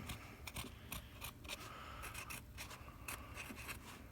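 Marker pen squeaking and scratching in quick, irregular strokes as a signature is written on a 12-inch subwoofer.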